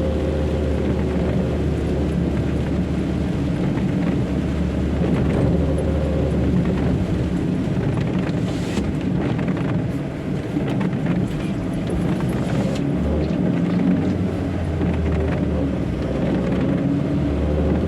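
Light truck driving on a wet road, heard from inside the cab: a steady low engine drone with a constant hiss of tyres and rain.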